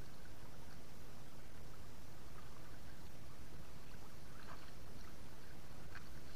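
Water running steadily, with a few faint small splashes or trickles.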